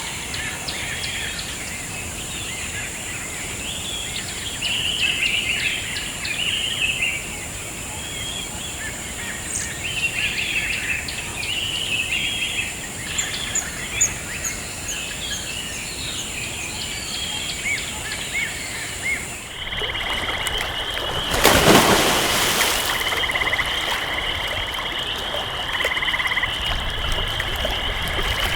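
Jungle ambience: many birds chirping and calling over a steady high-pitched insect drone. About 20 seconds in it cuts to a steady pulsing chorus, with a brief loud rush of noise a couple of seconds later.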